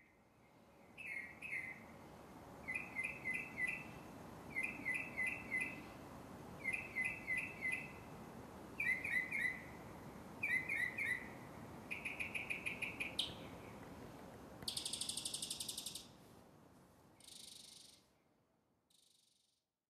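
Bird chirping in short groups of three or four quick chirps, repeated about every two seconds, over a low hiss. About twelve seconds in comes a fast run of chirps, then a brief buzzing trill.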